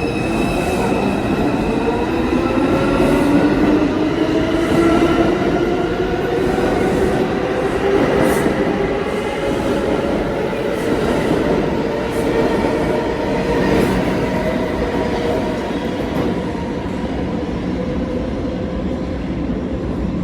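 An R142 subway train accelerating away from a station. Its electric traction motors whine, the whine rising in pitch over the first several seconds and then holding steady, over the rumble of the cars and the clicking of the wheels on the track.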